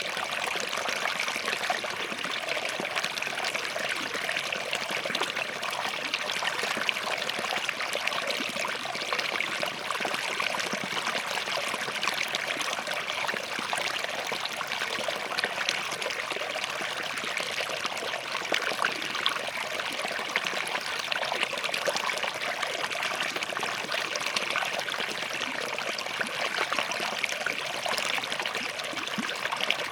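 Small forest stream running over and between rocks, a steady babbling trickle with close little splashes.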